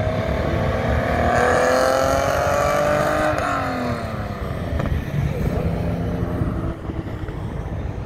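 A BMW 3 Series sedan accelerating past on a race track. Its engine climbs in pitch for about three seconds, then the pitch drops sharply as the car goes by and the engine sound fades.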